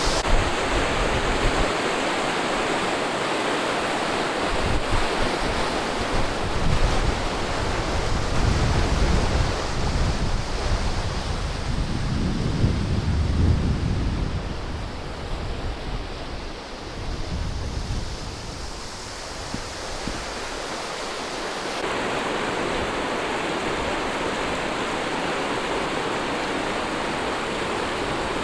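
Fast river current rushing steadily, the outflow of a hydroelectric power station below a dam. Wind buffets the microphone with heavy low rumbling gusts through the first half, easing after about 17 seconds.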